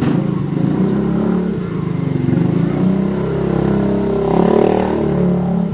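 A loud engine running, its pitch rising and falling as it revs, loudest about four and a half seconds in.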